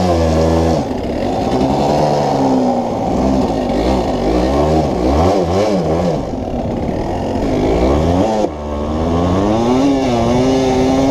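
Pit bike engine being ridden, its revs rising and falling again and again, with a brief drop in revs about three quarters of the way through.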